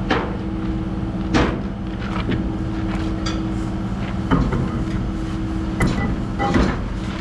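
A truck engine idling steadily, under about five sharp metallic clanks and knocks from tire-changing work.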